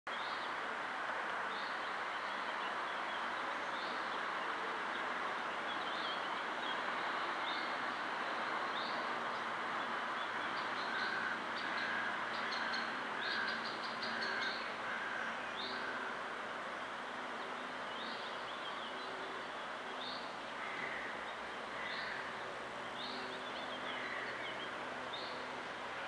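Birds chirping in short high calls about once a second over a steady background rush, with a few brief whistled notes in the middle.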